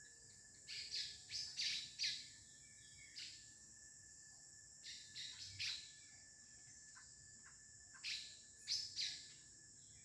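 Small birds chirping in the trees: short, high, downward-sliding call notes in scattered bursts. Beneath them runs a steady high insect drone from chicharritas.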